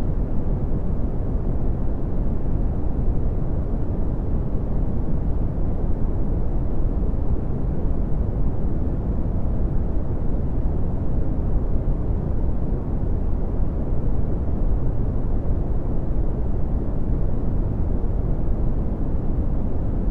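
Red (Brownian) noise: a steady, deep, even rumbling hiss, its power falling off toward the high end, with no changes or events.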